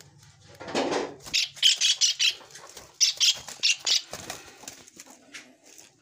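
Caged birds in a wire-mesh aviary fluttering and calling. A rustle of wings comes just under a second in, followed by two clusters of quick, high chirps.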